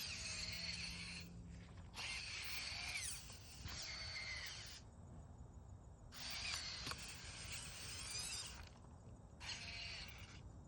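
A robot dog's leg motors whining and grinding in bursts of a second or two, starting and stopping sharply as it steps its way up a steep slope.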